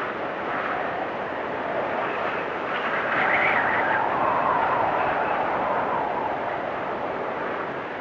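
Blizzard wind blowing steadily. A gust swells about three seconds in and eases off again by about six seconds.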